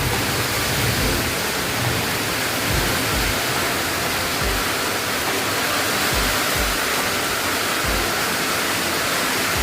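Steady hiss of falling rain, with irregular low thumps underneath.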